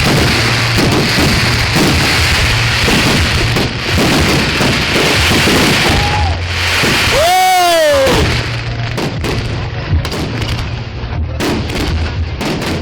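Fireworks going off: a dense, continuous crackling and popping with bangs mixed in. About seven seconds in, a short falling tone cuts through, and after it the bangs come more separately.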